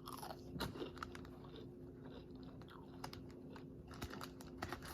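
A person chewing crispy fried onion rings: faint, irregular crunches.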